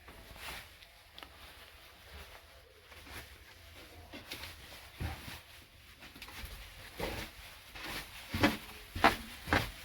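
Footsteps in a small room: light, scattered steps at first, then a run of heavier footfalls about half a second apart in the last few seconds.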